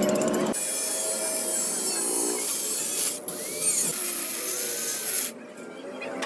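Metalworking tool noise: a steady rasping, scraping sound of tools working metal, with faint squeaks. It changes abruptly about half a second in and again around three seconds in, then drops quieter a little after five seconds.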